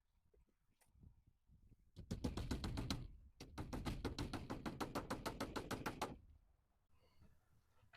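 Rapid, even clicking, about nine clicks a second, in a run of about a second and then a run of about three seconds. It fits a power driver running screws into soffit.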